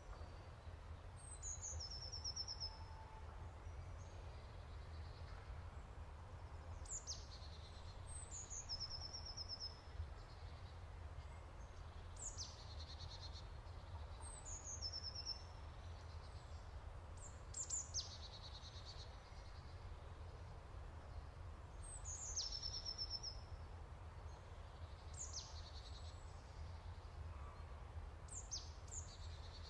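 A bird repeating a short high call, a quick downward sweep that ends in a rapid trill, about ten times at intervals of two to five seconds, over a faint low steady rumble.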